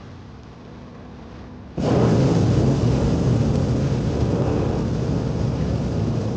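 Hot air balloon's propane burner firing: a loud, steady roar that starts suddenly about two seconds in.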